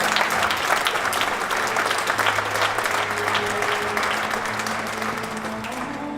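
Audience applauding over soft background music; the clapping thins out near the end while the music carries on.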